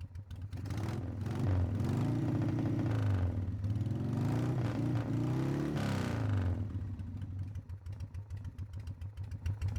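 Motorcycle engine revving, its pitch rising and falling twice, then dropping back to a slower, pulsing beat.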